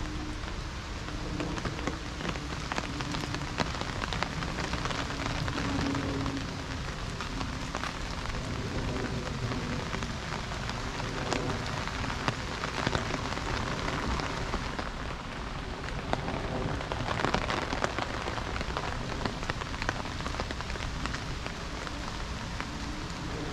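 Steady rain falling, with many separate drops striking close at hand.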